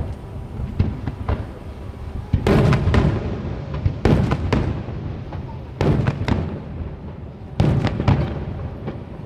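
Aerial fireworks shells bursting. A few lighter reports come first, then four big booms about every 1.7 seconds, each rumbling away, with smaller cracks between them.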